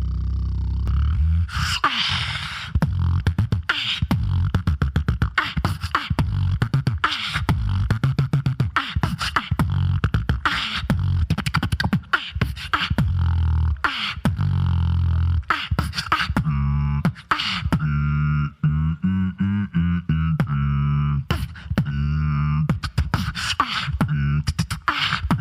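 Solo vocal beatboxing: a deep, held bass under rapid kick and snare clicks. From about sixteen seconds in, the bass turns into a line that steps between pitches.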